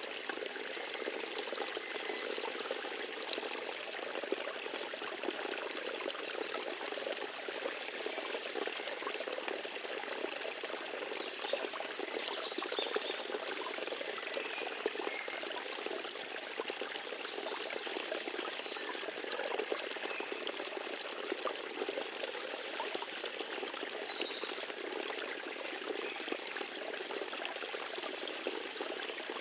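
Forest stream trickling and babbling steadily, with a few faint high chirps over it.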